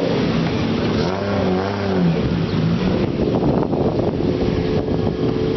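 Loud aftermarket exhaust of a kaido-racer style car engine being revved: the pitch rises and falls twice in the first two seconds, then settles into a rough, rumbling run.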